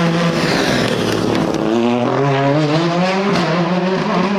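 Rally car engine pulling hard on a special stage. Its pitch climbs as the car accelerates, then drops at an upshift about three-quarters of the way in.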